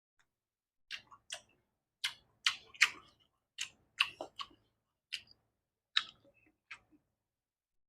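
Close-miked chewing of soft boiled chayote: a dozen or so irregular wet mouth clicks and smacks.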